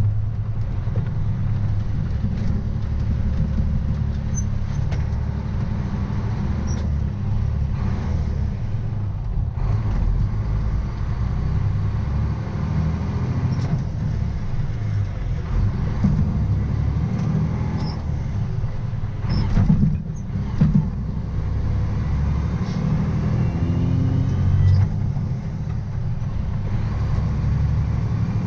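Diesel engine of a semi tractor running steadily under way, pulling a loaded grain trailer, with a few short knocks and a louder patch near two-thirds of the way through.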